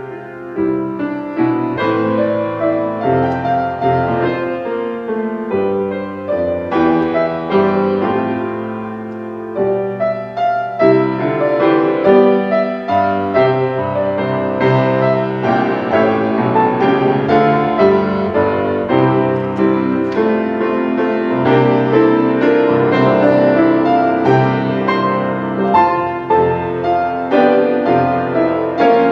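Piano playing a continuous piece of chords and melody, with note after note struck and left to ring.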